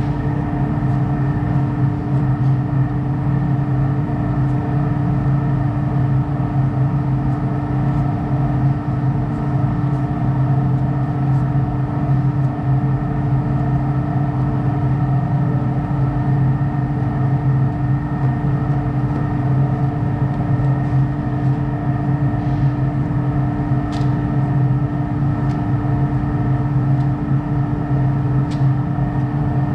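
Steady motor hum at a constant pitch, with a few faint clicks near the end.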